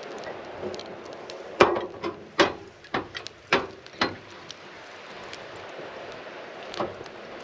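A quick run of about six sharp knocks, then one more a few seconds later, over a steady rushing background.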